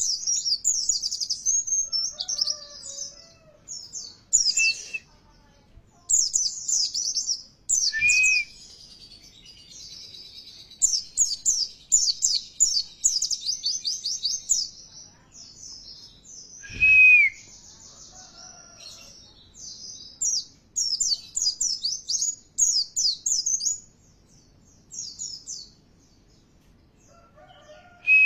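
White-eyes (pleci) singing: bursts of rapid, high twittering song with short pauses between them. A few louder single down-curving calls break through, the loudest about halfway.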